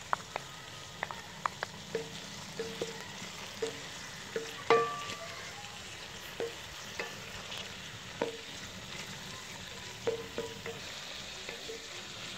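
Onion, tomato and green chillies sizzling in oil in a kadai and being stirred, the tomatoes frying down until they soften and release their water. A spoon clinks and scrapes against the pan every second or so, at uneven intervals, the loudest clink about five seconds in.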